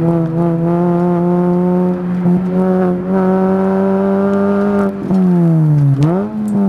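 A race-prepared Mini Cooper's four-cylinder engine, heard from inside the cabin, held at high revs under power with a slowly rising pitch. About five seconds in the revs fall away as the car slows for a corner, then jump back up quickly near the end.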